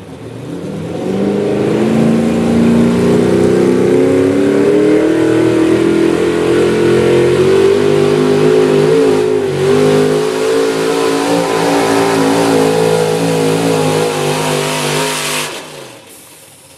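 A pulling vehicle's engine running hard under full throttle and heavy load while dragging the pulling sled, its pitch slowly climbing and wavering. The engine winds down and fades near the end.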